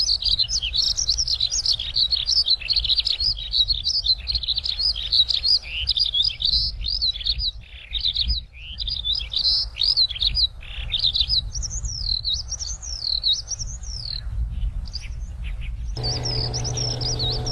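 A small rice-field bird singing a fast, continuous twittering song of quick high chirps, with a short lull partway through and then slower rising-and-falling whistled phrases. A low steady hum comes in near the end.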